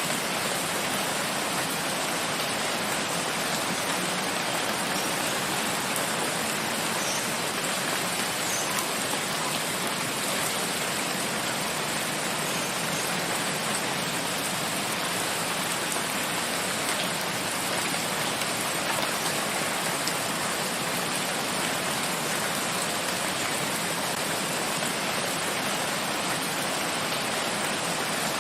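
Steady heavy rain falling, an even, unbroken hiss with a few faint drops standing out.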